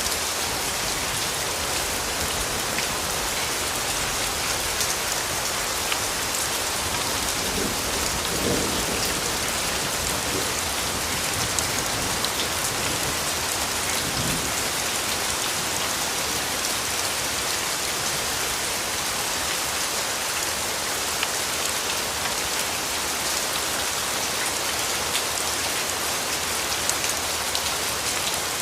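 Steady rainfall, an even hiss of rain on foliage and ground, with individual drops ticking here and there.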